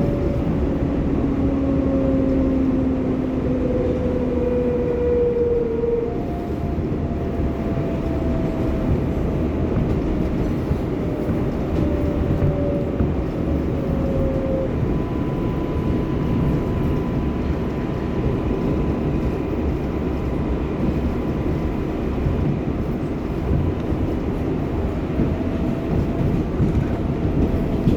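R188 subway car running on the rails with a steady rumble, its traction motors whining in several tones that slide slowly down in pitch as the train slows.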